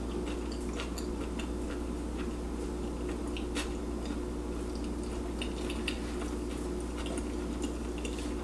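Close-miked chewing of a torta de milanesa sandwich: scattered small wet mouth clicks over a steady low hum.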